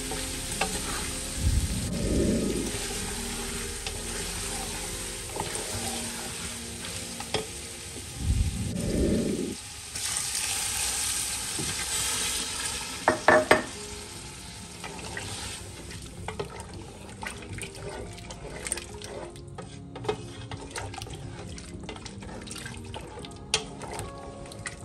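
Turnip and chicken curry masala sizzling in an aluminium pressure cooker as it is stirred with a wooden spoon, with two dull thumps in the first half. About ten seconds in, a glass of water is poured into the pot, the spoon clacks against the pot a few times, and the sizzling turns quieter as stirring goes on.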